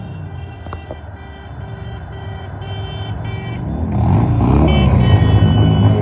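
A vehicle horn honking in short repeated blasts, about two a second, for the first few seconds. About four seconds in, a loud engine rev rises and covers the horn; this is the loudest part.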